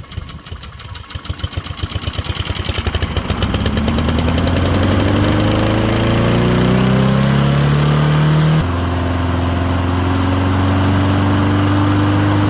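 Gas lawn mower engine catching on starting fluid. It fires in separate pulses that speed up, climbs steadily to running speed over several seconds, then drops abruptly in pitch about eight and a half seconds in and keeps running steadily.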